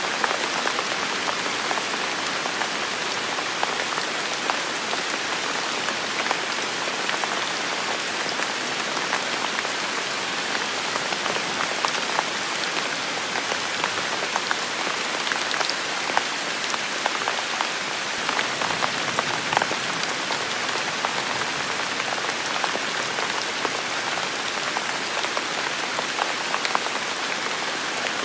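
Heavy rain falling steadily in a forest, a dense even hiss with many individual drops ticking on surfaces.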